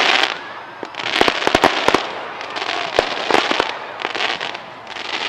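Aerial fireworks display: sharp bangs in quick clusters, a single bang about three seconds in, and a crackling hiss from the bursting shells in between.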